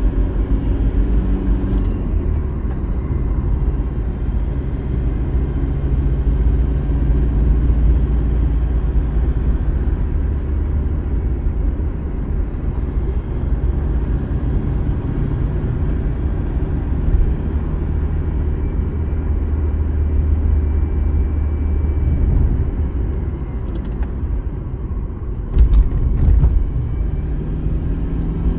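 Car driving along a road: steady engine hum and road rumble, with a few brief knocks about 25 seconds in.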